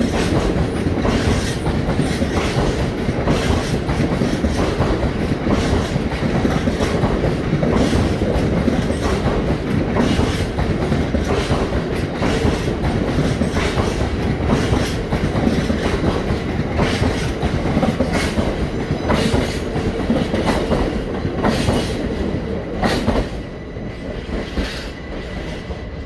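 A train running along track, with a continuous rumble and repeated clicks of wheels passing over rail joints; it gets a little quieter about three seconds before the end.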